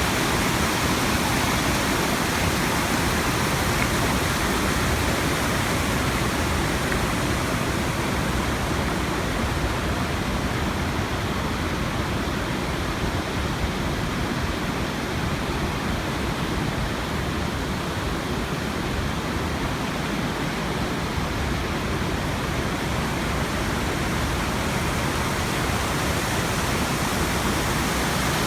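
Steady rushing of Bassi Falls, a 109-foot waterfall, plunging into its pool.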